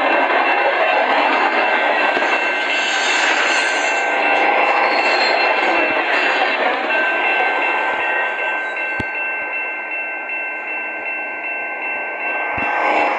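Freight train rolling past, a steady dense rumble and rattle of wagons on the rails with a thin steady high whine over it, easing slightly in the second half.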